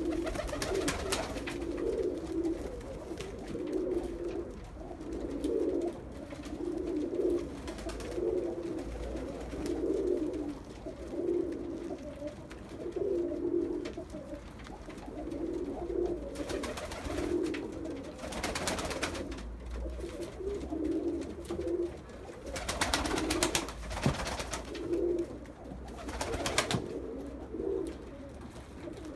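Iraqi domestic pigeons cooing over and over, a steady run of low coos about a second apart. A few short bursts of rustling noise break in, with a sharp click about two thirds of the way through.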